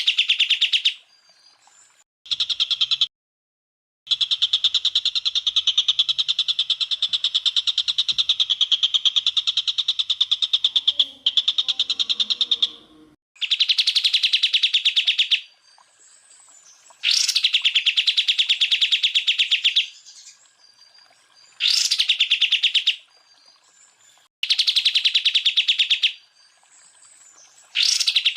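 Cucak ijo (greater green leafbird) singing in rapid-fire 'tembakan' phrases: bursts of very fast, shrill repeated notes, each phrase opening with a sharp upward sweep. The phrases last from about one to nine seconds and are broken by short gaps, some of them abrupt cuts to silence in the edited recording.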